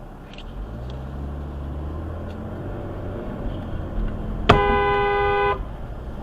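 Vehicle driving, with steady road noise and a low engine note that rises about half a second in; about four and a half seconds in, a vehicle horn sounds once for about a second, the loudest sound.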